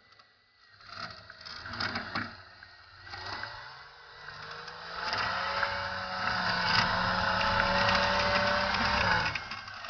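Off-road vehicle engine revving up with the pitch rising, held at steady high revs for several seconds, then dropping off near the end, during a snow recovery with a tow strap. A few knocks come before the engine picks up.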